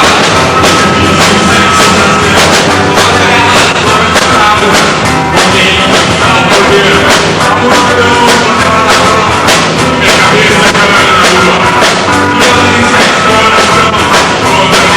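Rock band playing live at a soundcheck, loud, with the drum kit keeping a steady beat under bass and other instruments.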